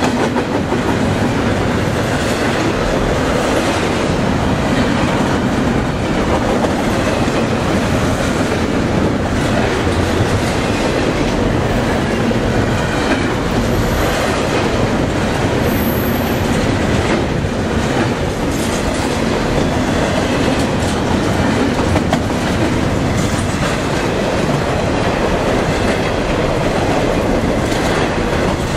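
CSX intermodal freight train passing close by, its double-stack container cars and trailer-on-flatcar cars rolling past with a steady, loud rumble and the clickety-clack of wheels over rail joints.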